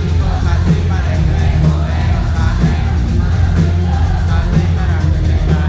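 Loud live pop-rock band music with a heavy, steady bass, recorded from the audience, with a voice singing over it.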